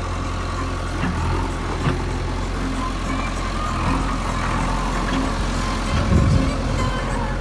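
Steady low engine rumble, like a motor vehicle running, with a brief louder low surge about six seconds in.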